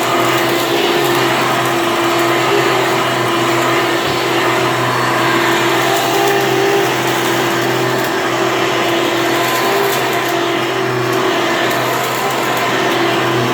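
Hoover Elite vacuum cleaner running steadily, a constant motor hum over the rush of air.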